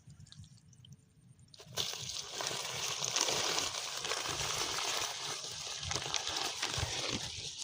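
Shallow rice-paddy water sloshing and splashing, with many small crackles, starting a little under two seconds in and going on steadily.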